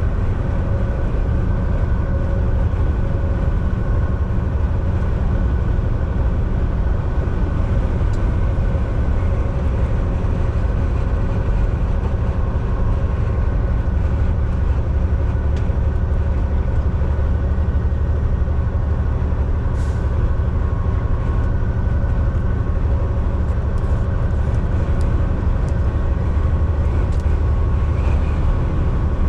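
Volvo VNL 760 semi truck cruising at highway speed, heard from the driver's seat: a steady low diesel engine drone with road and tyre rumble, and a few faint clicks in the cab in the second half.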